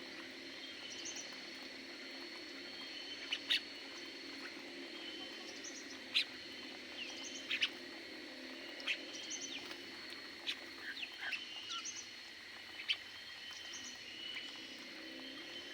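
Small cage birds in an aviary giving short, sharp chirps at irregular intervals, a dozen or more, over a steady background hum.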